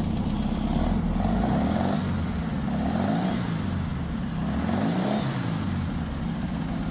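Freshly rebuilt 1967 Porsche 912 air-cooled flat-four engine running cold on its stand, its revs blipped up and back down about three times and returning toward idle in between.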